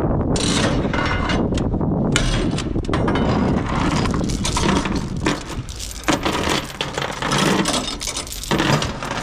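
A load tie-down on a flatbed trailer being ratcheted tight, with irregular mechanical clicking and rattling, over wind buffeting the microphone.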